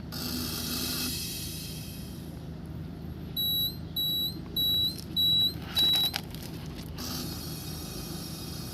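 Gas-station air inflator beeping five times in an even row, one high tone each, over the steady low hum of the compressor, with a brief hiss of air in the first second. The beeps are the inflator's signal that the set pressure in the ball has been reached.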